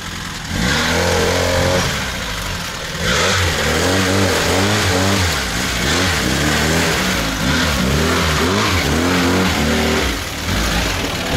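Lada Niva 4x4 engine revving up and down as it drives slowly through mud, its pitch rising and falling over and over, easing off briefly about three seconds in and again near the end.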